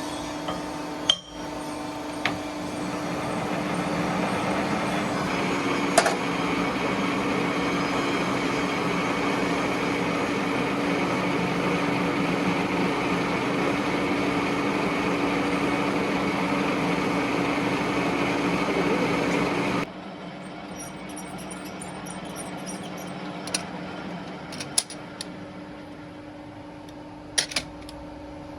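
Factory machinery running with a steady hum and scattered sharp metallic knocks; about two-thirds of the way through the noise drops abruptly to a quieter running sound with a few more clanks.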